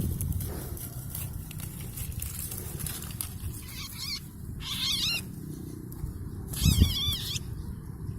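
Sooty-headed bulbul calls: three short, wavering, warbling calls, the last and longest near the end, over low rumbling handling or wind noise.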